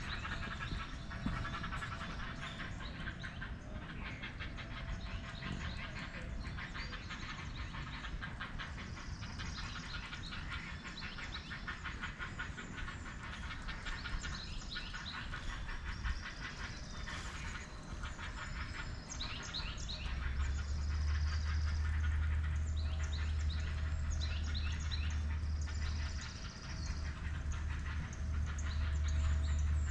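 Several wild birds chirping and trilling, with rapid, overlapping calls all through. About two-thirds of the way in, a steady low rumble starts and becomes the loudest sound.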